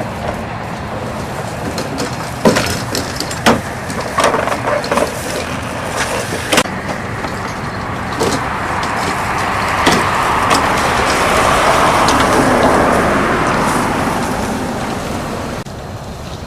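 A motor vehicle's steady rumble with scattered sharp knocks. The rumble swells and fades over a few seconds, like a vehicle passing, then cuts off abruptly near the end.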